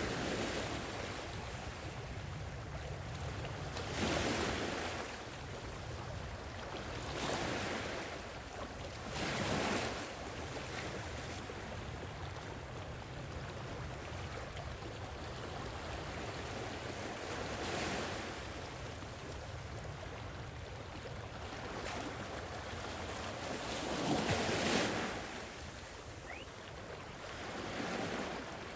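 Gentle sea waves washing onto a shore: separate swells of surf every few seconds over a steady low rumble of the sea, the loudest wave breaking near the end.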